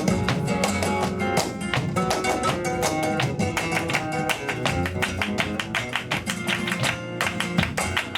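Live flamenco tangos: a flamenco guitar strumming and picking, with a dense run of sharp percussive strikes, several a second, over it.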